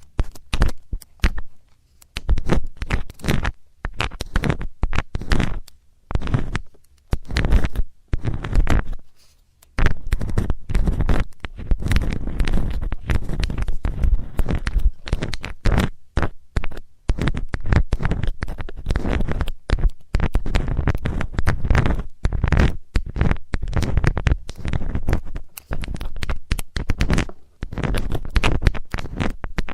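Metal ear-cleaning tool scraping and rubbing against a microphone's ear, as close-up scratchy rustling in irregular bursts that run almost without a break from about ten seconds in.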